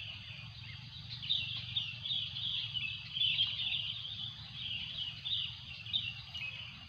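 Birds chirping in quick repeated bursts with no letup, over a faint low rumble.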